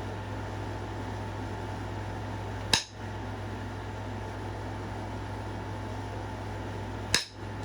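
Two sharp, glassy clicks about four seconds apart: flaking strikes on a stone point being knapped, as flakes are driven off to thin it. A steady hum runs underneath.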